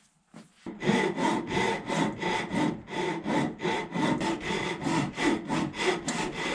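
Hand saw cutting through ash wood in steady back-and-forth strokes, about three a second, starting about a second in.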